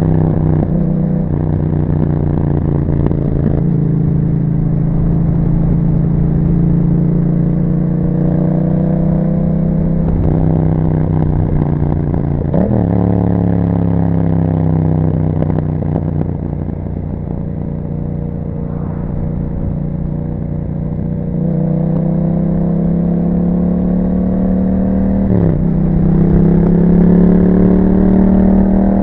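Yamaha MT-07's parallel-twin engine through an Akrapovic exhaust under way, its pitch falling as the throttle eases off and then climbing as it accelerates. It shifts up about halfway through and again near the end.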